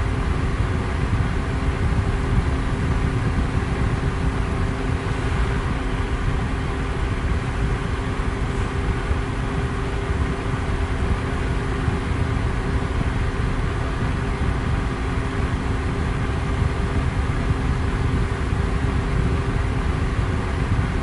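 Electric fan running steadily at high speed: a dense, even rushing of air with a low rumble and a faint steady hum from the motor.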